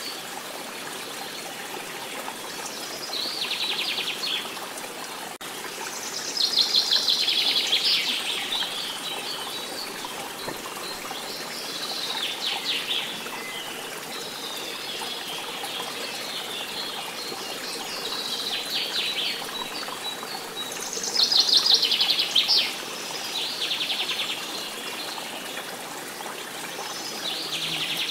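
Birds singing: short trilled phrases every few seconds, over the steady sound of running water.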